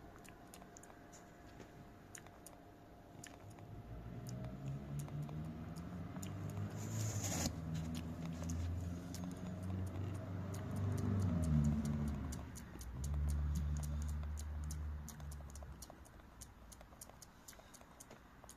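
Macaque moving about in a box of dry rusks: a run of quick, light clicks and crackles. A low hum swells about four seconds in, is loudest near the middle, and fades out near the end.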